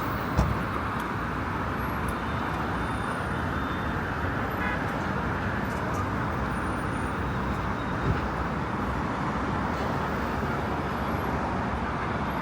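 Steady road traffic noise on a city street, with a short knock about half a second in and another about eight seconds in.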